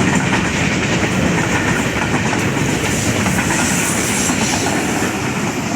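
Goods container train rolling past: the wagons' wheels running on the rails in a loud, steady, continuous noise.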